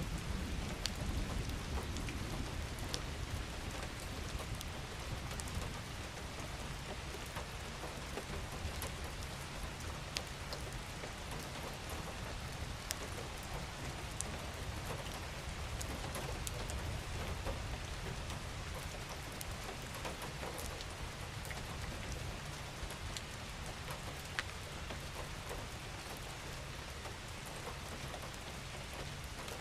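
Steady rain falling, with single drops ticking sharply over an even hiss and a low rumble underneath.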